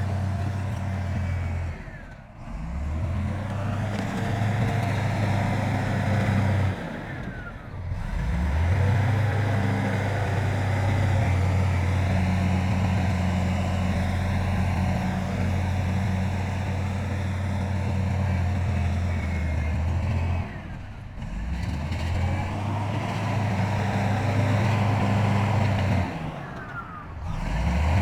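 Heavy diesel engines of earthmoving machinery running steadily with a low drone, which drops away briefly about four times.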